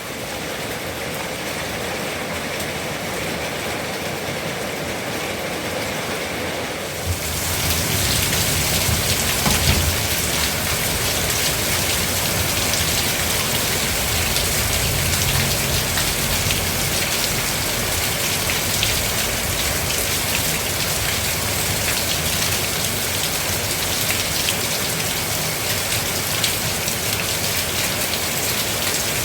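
Rain falling steadily, pattering on surfaces, becoming heavier and louder about seven seconds in.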